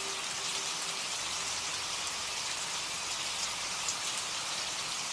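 Steady rain, an even hiss of falling drops. A last held low note of music fades out about a second in.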